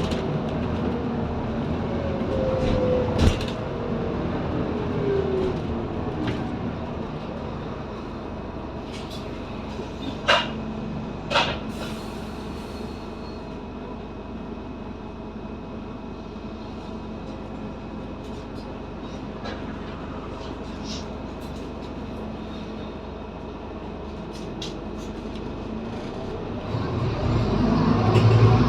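Inside a Scania N230UD double-decker bus: a whine that falls in pitch over the first few seconds as the bus slows, a few sharp clunks and rattles, then a quieter steady stretch. Near the end the diesel engine revs up loudly as the bus pulls away.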